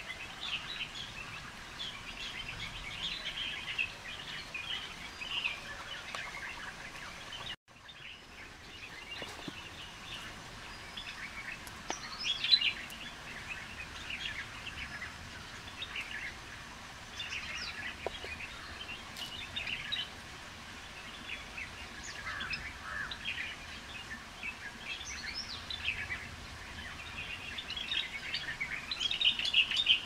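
A chorus of forest birds chirping and calling, with many short high chirps coming thick and fast. The sound cuts out for an instant about seven and a half seconds in, and there are louder bursts of calls about twelve seconds in and near the end.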